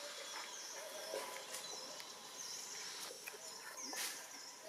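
Outdoor woodland ambience: short high chirping bird calls repeating every half second or so, with fainter lower gliding calls and a few sharp clicks, the loudest about four seconds in.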